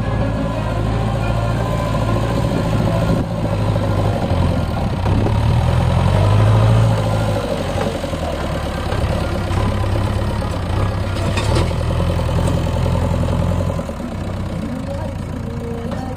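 Heavy diesel engine running steadily under load, swelling a little about halfway through and easing off near the end.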